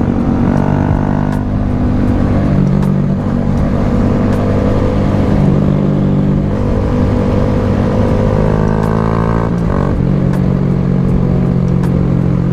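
Honda Grom small-bore motorcycle engine running under load, revving up through the gears: the pitch climbs and then drops at each shift, several times over.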